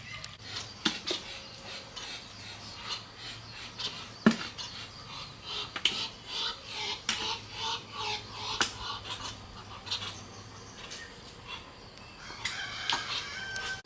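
Chickens clucking and calling in short bursts, with scattered sharp knocks and a longer held call near the end.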